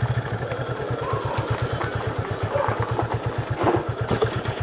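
Yamaha motorcycle engine running at low revs, ridden slowly, with an even, rapid beat of about ten pulses a second.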